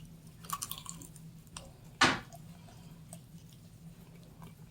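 Close-up eating sounds: small wet clicks and smacks from saucing and biting a fried chicken wing dressed with hot sauce, with one louder bite or smack about two seconds in. A faint steady hum runs underneath.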